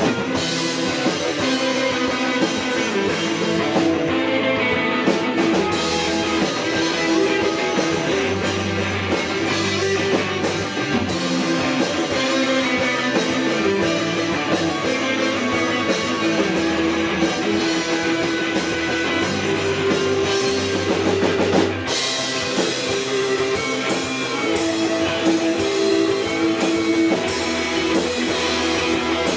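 Live rock band playing an instrumental passage: distorted electric guitars over a drum kit with steady cymbals and bass.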